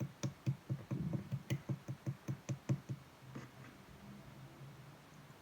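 Green clear slime pressed and squished by hand, giving a quick, even run of soft squishy pops and clicks, about five a second. The run stops about three seconds in, and only faint handling is left after that.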